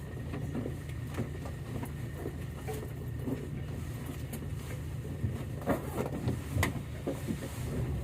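Steady low drone of a motor launch's engine running, with scattered light knocks and clicks over it.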